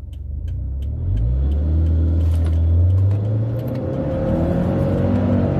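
Turbocharged 2.0-litre flat-four of a Subaru Forester tS STI revving up under hard acceleration from a standstill, its note climbing in pitch as the car pulls away. Heard from inside the cabin.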